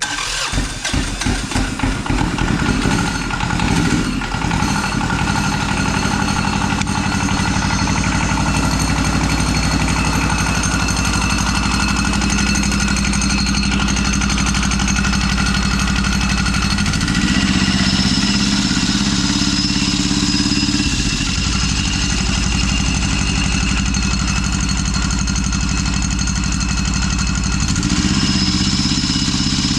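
Diesel engine of a home-built motorcycle starting cold after extra glow-plug time: it catches unevenly for the first few seconds, then runs steadily. Its speed picks up for a few seconds about 17 seconds in and again near the end.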